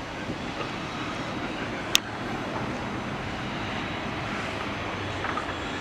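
Airliner engines heard as a steady rushing noise, with one sharp click about two seconds in.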